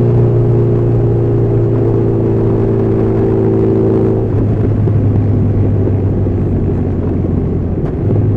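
Honda CB1300SF's inline-four engine running under way at a steady note. About halfway through the note turns rougher and less even, and it dips briefly near the end.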